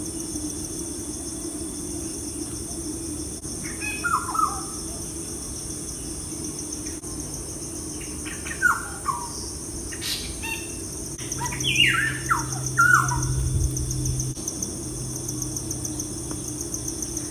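Birds calling in short, falling chirps that come in clusters every few seconds, busiest about two-thirds of the way through, over a steady high drone.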